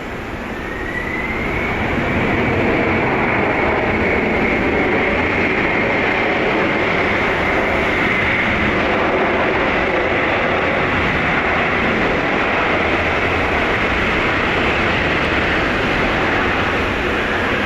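Jet engines of a Boeing 777-300ER (GE90-115B turbofans) taxiing close by: a steady rushing rumble with a high whine. It swells over the first two seconds, the whine rising slightly, then holds.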